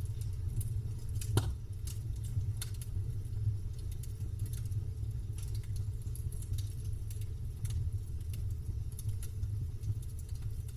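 Campfire crackling: irregular sharp pops and snaps of burning wood over a steady low rumble, with one louder pop about a second and a half in.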